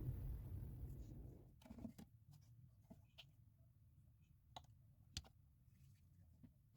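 A low rumble fades out over the first second and a half, leaving a near-silent room with a handful of faint, scattered clicks.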